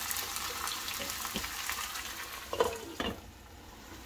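Sliced green chiles sizzling as they fry in oil in a pan, with a few knocks and scrapes of a spatula stirring them. The sizzle drops away about three seconds in.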